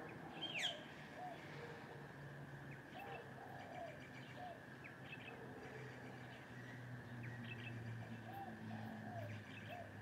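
Birds calling in suburban trees: a quick, sharp downward-sweeping whistle about half a second in is the loudest sound, while another bird repeats a short phrase of three low notes three times. A steady high hum and a faint low rumble run underneath.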